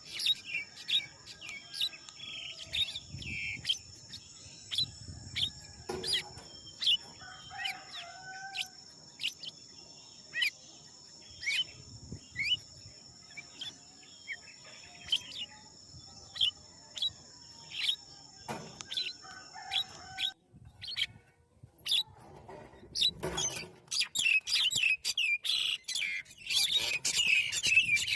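Birds chirping in many short, sharp calls over a steady high-pitched buzz. The buzz stops about two-thirds of the way through, and the chirping grows busier and louder near the end.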